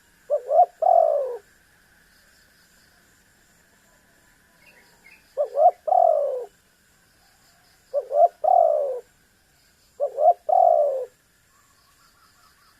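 Spotted dove (tekukur) cooing: four calls, each two short quick notes followed by a longer, falling coo, spaced a few seconds apart.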